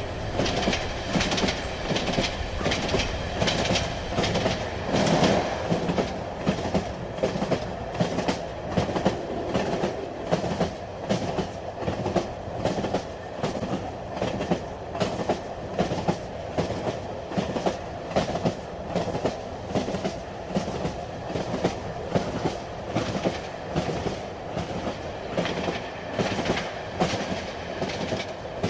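Train running along the track: a continuous rumble with the wheels clacking over rail joints in a steady, even rhythm.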